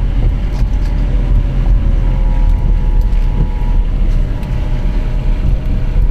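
Wind buffeting the microphone over the low rumble of a vehicle, steady and loud, with faint steady tones in the background.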